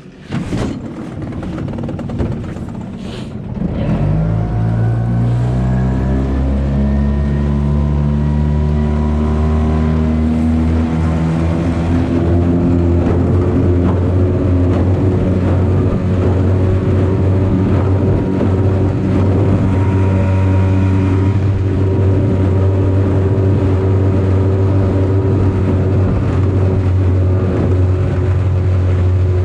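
5 hp Yamaha two-stroke outboard motor on a small aluminium boat, opened up about four seconds in. Its pitch climbs for several seconds as the boat gets up to speed, then holds steady at full throttle.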